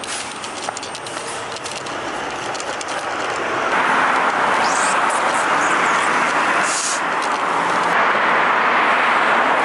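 Rushing vehicle noise that swells over a couple of seconds, loud by about four seconds in, then holds steady.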